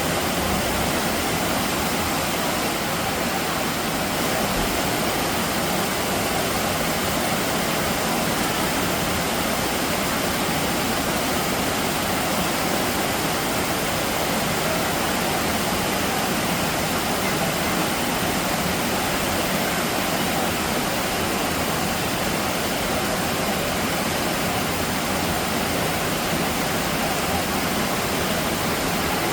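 Heavy rain falling, a steady rushing hiss that stays at a constant level.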